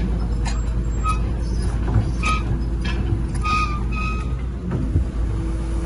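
Heavy earthmoving machinery running, a steady low diesel engine rumble, with a reversing alarm beeping about four times in the middle.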